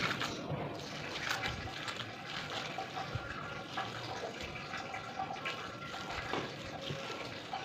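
Water running from a tap, with small splashes and clatter throughout.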